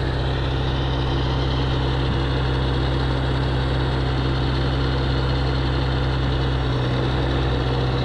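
Diesel tractor engine running steadily, driving a front-mounted snowblower through deep snow.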